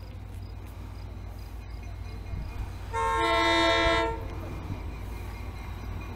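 Locomotive horn sounding one blast of about a second, several notes at once, over a low steady rumble.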